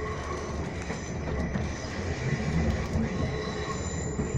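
Train running, heard from inside the carriage: a steady rumble of the wheels with thin, high-pitched wheel squeal over it.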